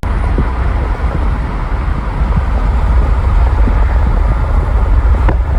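A vehicle driving: a steady, loud low rumble of road and wind noise.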